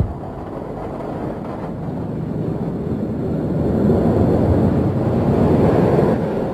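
Steel roller coaster train running along its track: a steady rumbling rush that swells to a peak about four to six seconds in, then starts to fade.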